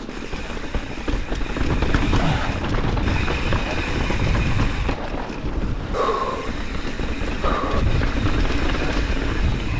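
Mountain bike running down a wet, rocky trail: wind buffeting the microphone over a constant rumble and clatter of tyres and bike on rock, with two short squeaks about six and seven and a half seconds in.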